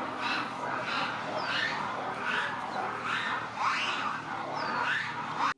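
A group of birds calling over and over, with overlapping rising, squawky calls about twice a second over a low steady hum. The sound cuts off suddenly at the end.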